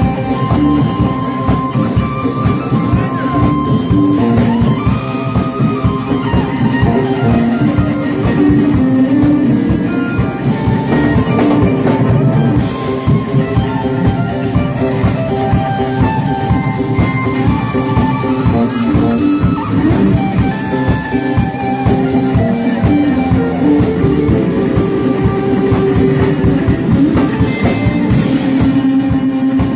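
Live rock band playing an instrumental passage: electric guitar lead over bass and a drum kit.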